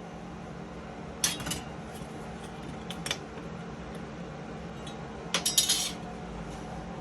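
Metal pieces clinking and clattering: a short clatter about a second in, a single clink near three seconds, and a longer run of clinks a little past five seconds, over a steady low hum.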